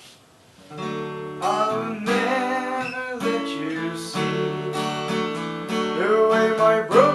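Acoustic guitar strumming and picking the song's introduction, coming in under a second in after a brief hush.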